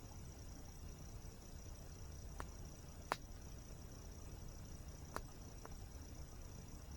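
Campfire crackling with four sharp pops, the loudest about three seconds in, over a steady high-pitched insect trill and the low, steady rumble of a waterfall.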